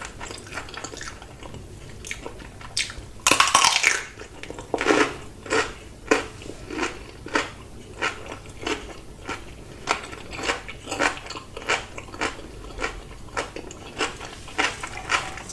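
Close-miked eating: one loud crunching bite about three seconds in, then steady wet chewing at about three chews every two seconds.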